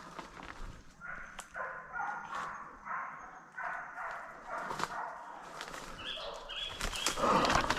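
Bailing dogs barking in the distance, about two barks a second in a steady run, the sound of dogs holding a feral pig at bay. Footsteps crunch through undergrowth close by.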